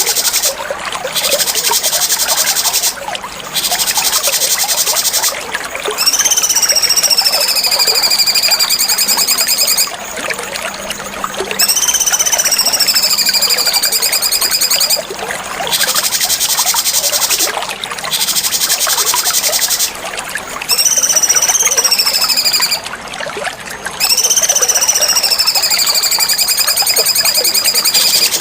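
Cucak cungkok songbird singing, alternating a rapid, high buzzing trill with clear whistled phrases that dip slightly in pitch, repeated every few seconds with short pauses between phrases.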